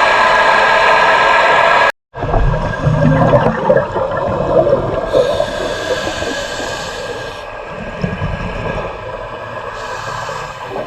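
A boat's engine runs steadily. About two seconds in, a cut gives way to muffled underwater sound: low surges and gurgling bubbles from a diver's breathing.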